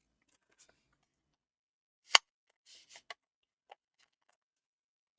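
Small handling sounds of a metal split pin being pushed through a hole in folded paper card: a sharp click about two seconds in, the loudest, then a short paper rustle and two lighter clicks.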